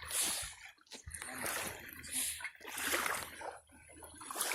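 Jet ski running on the water, spray splashing in uneven surges over a low steady hum.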